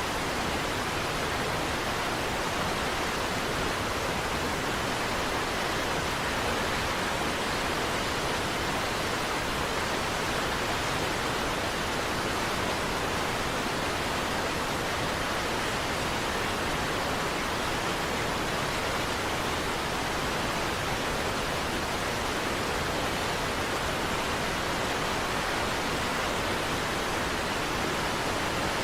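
Steady, unbroken rush of a large waterfall, Niagara Falls, with no separate splashes or other events.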